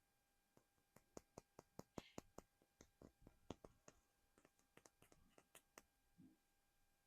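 Fingers tapping on a small hard collectible figure: quick, irregular clicks, several a second, with a thicker cluster about one to four seconds in.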